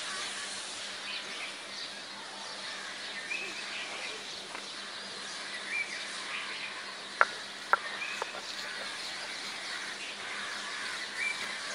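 Birds chirping on and off over a steady outdoor background with insects, and three sharp knocks about half a second apart roughly two-thirds of the way through.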